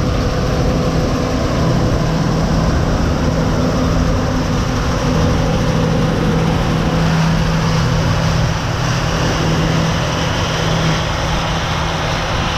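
John Deere 6155M tractor engine running steadily while hauling a grain wagon, a loud drone with a low hum.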